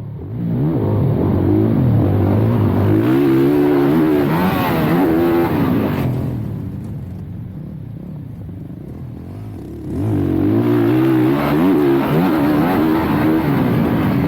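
Dirt bike engine running under throttle, its pitch rising and falling with throttle and gear changes. It eases off for a few seconds in the middle, then pulls hard again about ten seconds in.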